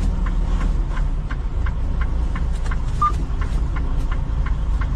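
Semi truck's diesel engine running at low speed, a steady low rumble with a light, regular ticking about three times a second.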